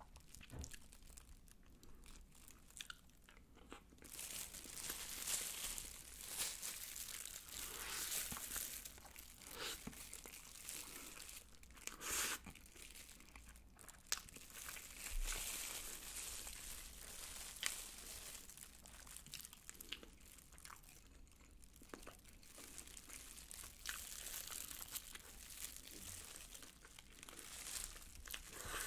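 Close-miked eating of sauced Korean fried chicken with rice: irregular crunching and chewing, mixed with the crinkle of disposable plastic gloves handling the chicken.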